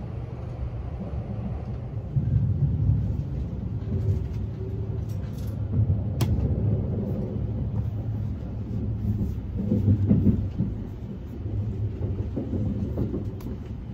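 Cabin running noise of an E257 series limited express electric train under way: a steady low rumble of wheels on rail that swells and eases, with one sharp click about six seconds in.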